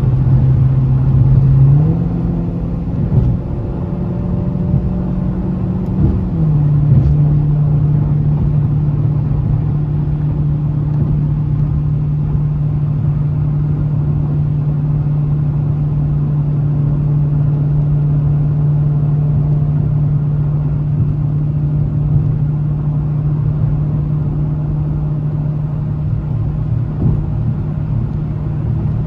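Dodge Challenger Scat Pack's 392 (6.4-litre) Hemi V8 running while the car is driven. The engine note rises about two seconds in, holds, eases down a little around six seconds, then settles into a steady drone at cruising revs.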